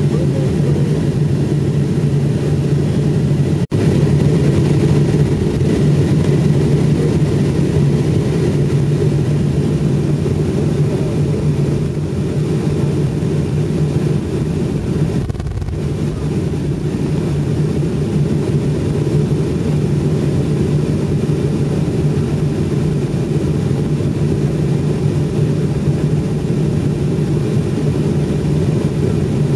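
Airliner cabin noise after landing: a steady low hum and rush from the idling jet engines and air conditioning as the aircraft rolls along. The sound cuts out for an instant about four seconds in.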